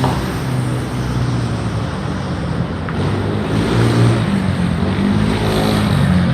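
A vehicle engine running among steady street noise, its low hum shifting slightly in pitch.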